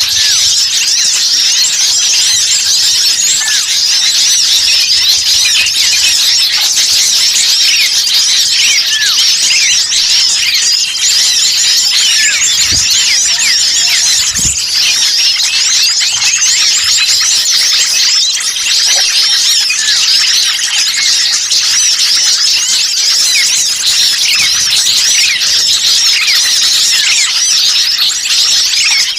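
Dense, noisy chorus of many small songbirds chirping and twittering at once without pause, a bird-lure call track meant to draw wild small birds in. Two brief low thumps come about halfway through.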